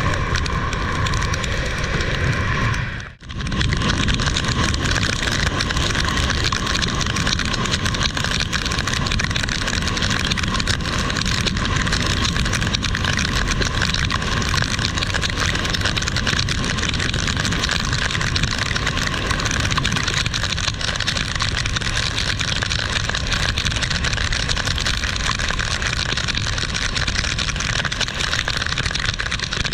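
Heavy rain falling steadily, a loud even hiss with a low rumble under it, cut off briefly about three seconds in.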